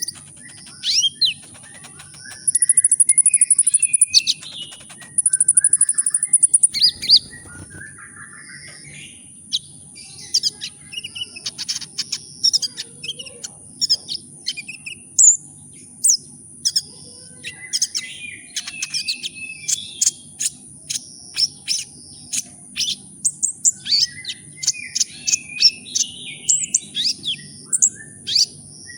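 A kolibri ninja sunbird singing: a fast run of sharp high chirps and twitters, with two loud rapid trills a few seconds in. A steady high whine and a faint low hum run underneath.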